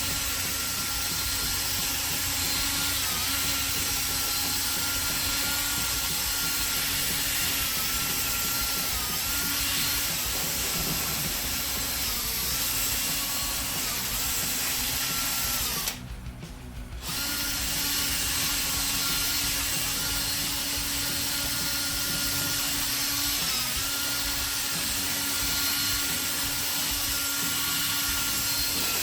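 Power drill spinning a sanding disc against a plastic headlight lens, sanding off the cloudy, sun-damaged surface. The motor runs steadily, its pitch dipping briefly several times as it takes load, and it stops for about a second roughly halfway through.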